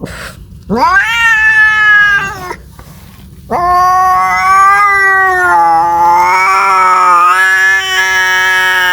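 Domestic cat yowling: a short rising call about a second in, then a long drawn-out wavering caterwaul starting past the middle. This is the kind of call a cat makes when seeking a mate.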